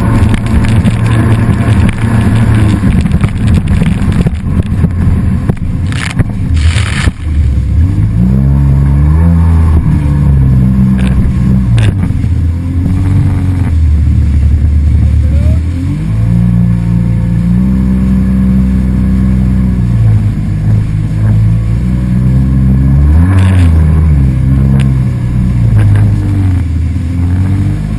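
A motor engine revving up and down again and again, its pitch climbing and dropping, with a rough rushing noise over it during the first few seconds.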